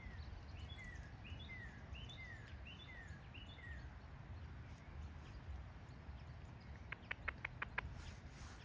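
A songbird singing a phrase of about seven repeated down-slurred whistles over the first four seconds, then a quick run of about seven sharp clicks near the end, over a faint low rumble.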